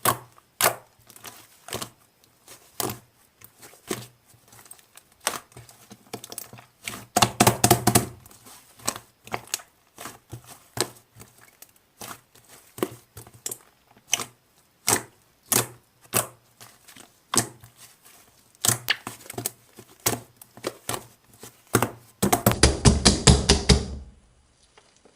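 White slime being squished and poked by hand, giving a run of sharp wet pops and clicks about one or two a second, with a quick burst of pops about seven seconds in and a longer, louder rapid run near the end.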